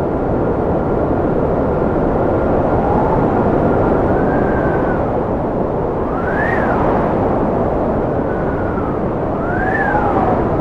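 Strong, steady wind with whistling tones that rise and fall in pitch several times, the sharpest peaks about six and a half seconds in and near the end.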